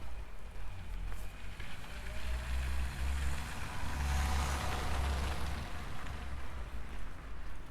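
A road vehicle passing by: its noise swells to a peak about four to five seconds in, then fades away.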